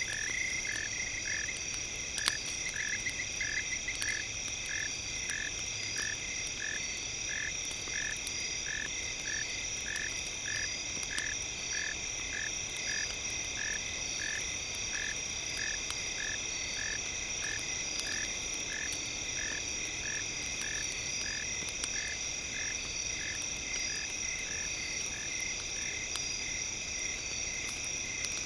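Night nature ambience: a frog croaks in a steady even rhythm, about one call every 0.7 seconds, over a continuous high insect drone. Light crackles from a campfire are scattered through it.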